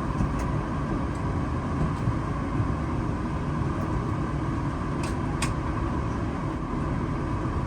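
Steady rumble of a vehicle running, with a faint steady tone in it and two short clicks about five seconds in.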